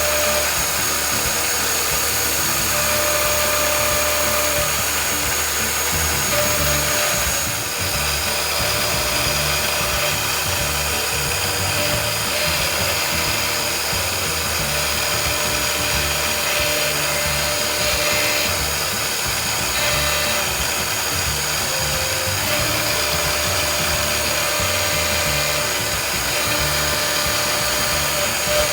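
A CNC milling spindle running with a steady high whine while cutting POM (acetal) plastic. The pitch of the whine shifts about seven to eight seconds in.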